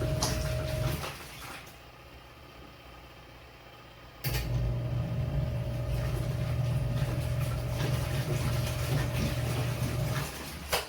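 Portable twin-tub washing machine's wash motor humming as it drives the pulsator. It stops about a second in, pauses for about three seconds, then starts again abruptly and runs until near the end, the stop-and-restart of the wash cycle's alternating agitation. A single click comes just at the end.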